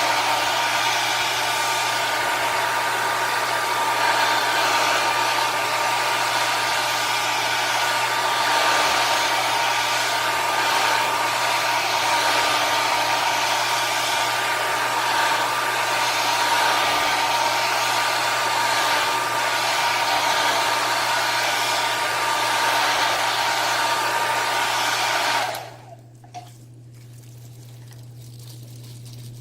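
Hot-air blower running steadily while freshly applied leather dye is dried, then switched off about 25 seconds in, leaving a low hum.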